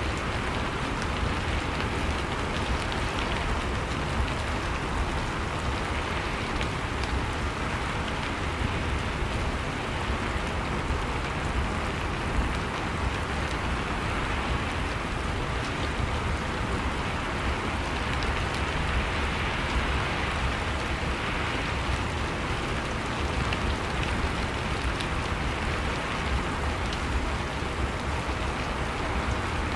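Steady rain falling on surfaces, an even hiss with many small drop ticks and a constant low rumble underneath, unchanging throughout.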